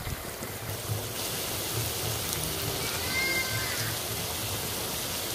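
Onion and capsicum pieces frying in hot oil in a wok: a steady sizzling hiss.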